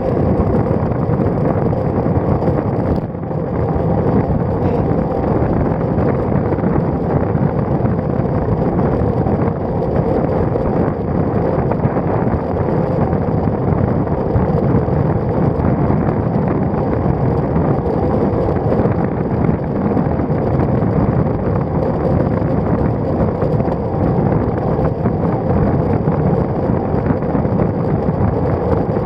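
Steady wind rushing over a bike-mounted action camera's microphone as a road bike is ridden at speed, with a brief dip about three seconds in.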